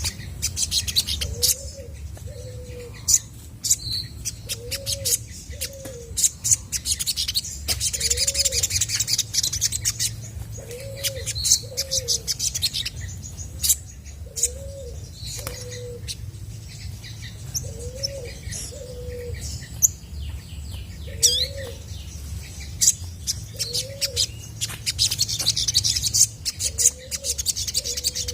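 Olive-backed sunbird singing fast, high-pitched chirps and twitters. Underneath, a lower two-note call repeats about every second and a half, over a steady low hum.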